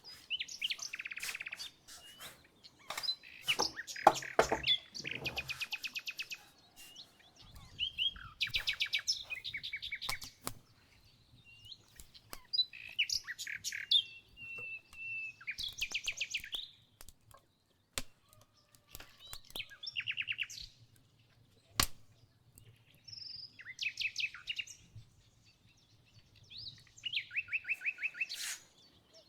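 Wild birds chirping and singing, in short fast trills and chirps repeated every few seconds, with a few sharp clicks in between.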